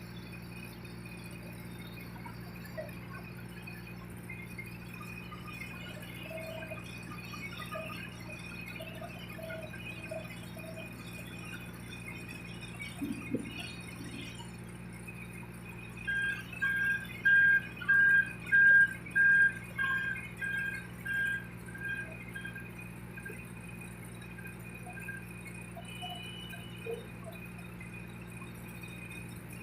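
Steady low engine hum with, about two-thirds through, a run of about a dozen short, evenly spaced high beeps at one pitch that swell and then fade away.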